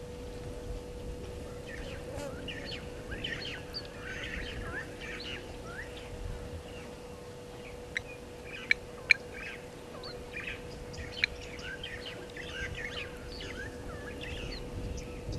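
Small birds chirping and twittering, many short overlapping calls, with four sharp clicks in the middle stretch. A faint steady hum lies underneath.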